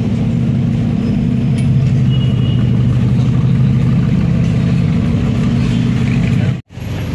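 Audi R8 supercar's mid-mounted engine running at low revs as the car rolls slowly past, a steady deep note. The sound cuts out for a moment near the end.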